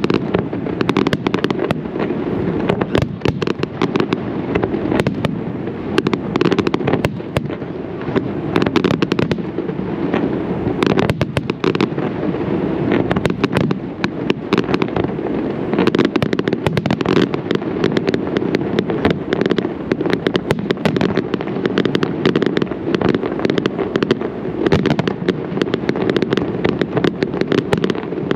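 Zambelli aerial fireworks display: a dense, unbroken barrage of shell bursts and crackling, many sharp reports a second over a continuous low rumble.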